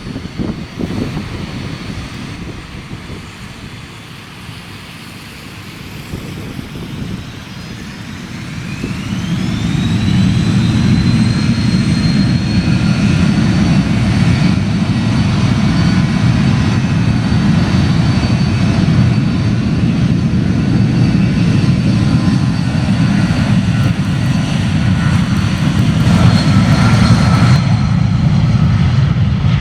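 Avro RJ100's four turbofan engines spooling up to take-off power: a whine rises about nine seconds in, then the engines settle into a loud steady jet noise with a high whine held above it.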